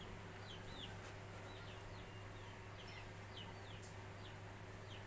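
Faint chirping of small birds: short downward-sliding chirps, about two a second and irregular, over a low steady hum.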